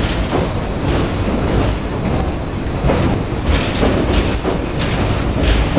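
Tobu Skytree Line train running across the Sumida River steel truss railway bridge: a continuous low rumble with repeated, irregular clacks of the wheels.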